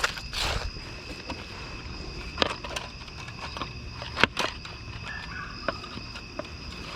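Scattered knocks and clatters of objects being handled and shifted in a dumpster, the two sharpest about two and a half and four seconds in, over a steady high-pitched drone.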